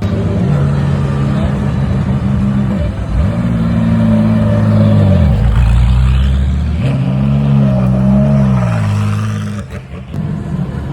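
Race car engine running at low revs and revved up twice, its pitch climbing and holding for a moment before dropping back, about three seconds in and again about seven seconds in.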